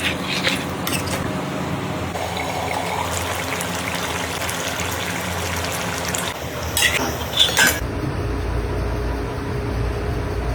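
Cooking in a metal pot: liquid being poured or stirred, with metal utensils clinking against the pot a few times, the sharpest clinks about seven seconds in. A low steady rumble comes in over the last couple of seconds.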